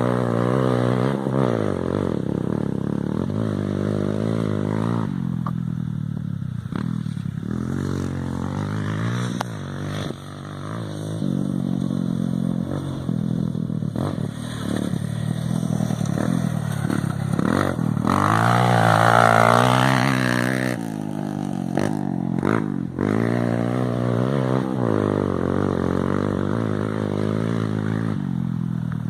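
Motorcycle engine revving up and down again and again, its pitch rising and falling, with the highest, loudest revs about two-thirds of the way through.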